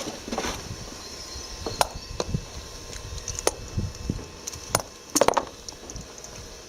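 Irregular sharp metallic clicks and clinks from a ratchet and tools at work on a motorcycle's sump plug as it is loosened, with a close cluster of knocks about five seconds in.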